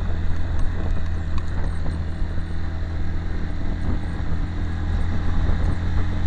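Single-cylinder 125 cc four-stroke engine of a Direct Bikes DB125-9 motorcycle, running with a steady, even engine note.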